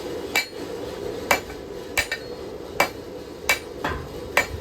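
Hand hammer striking hot steel on an anvil while drawing out a knife blade: about seven sharp metallic blows at an uneven pace, one of them lighter near the end.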